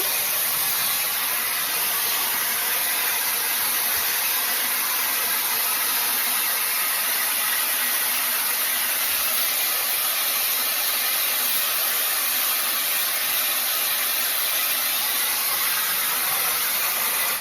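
Fanttik AirWave hair dryer brush blowing air through its air wrap curling attachment: a steady hiss that cuts off suddenly at the end as it is switched off.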